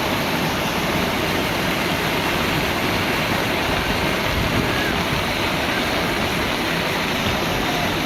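Heavy rain and rushing floodwater: a loud, steady, unbroken wash of water noise.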